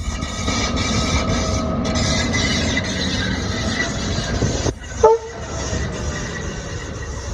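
LDH diesel-hydraulic locomotive running steadily, with a short, loud horn toot about five seconds in.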